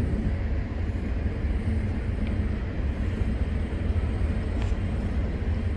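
Steady low rumble of a vehicle running, with outdoor street noise above it.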